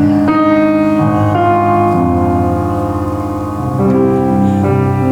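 Solo piano playing a slow worship song: chords struck every second or so, with the notes held and ringing between them.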